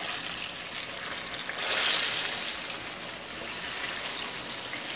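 Whole sweet plantains sizzling in shallow hot oil in a skillet as they are turned with tongs. The steady hiss swells louder for about a second, around two seconds in.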